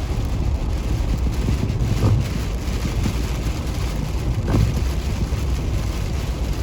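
Steady low road and engine rumble inside a car driving on a snow-covered interstate, with a short squeak about every two and a half seconds.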